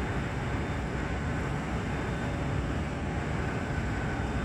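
Steady low mechanical rumble of mill machinery at a trailer-tipping unloading station, with a faint steady high tone over it.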